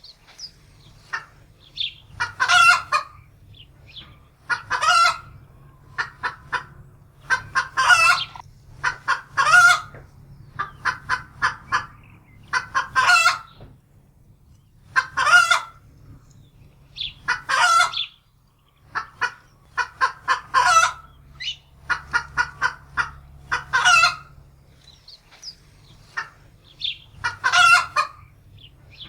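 Domestic hen cackling in alarm: runs of quick short clucks, each ending in a longer drawn-out squawk, repeating every two to three seconds.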